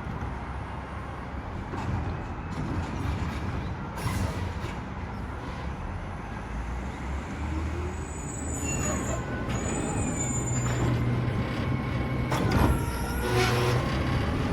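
Mack LR garbage truck running, with a steady low engine drone. From about eight seconds in, high whining tones that bend in pitch join it, and the sound gets louder toward the end.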